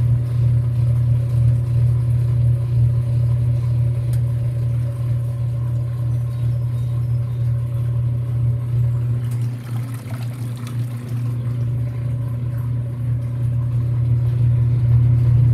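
Whirlpool WTW5300SQ0 top-load washing machine running steadily in its drain phase, its motor and drain pump making a low hum. The hum dips briefly about ten seconds in, then comes back.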